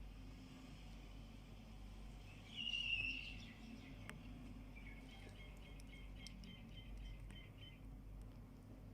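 Small bird calling: a short, high chirp about two and a half seconds in, then a quick run of about ten repeated high notes around five seconds in, over a faint, steady low hum.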